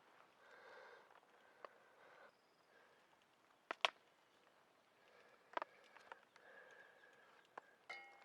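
Near silence with a few sharp clicks or knocks, the two loudest about four and five and a half seconds in.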